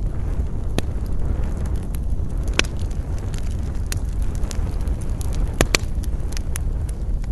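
Campfire burning: wood crackling with scattered sharp pops, over a steady low wind rumble.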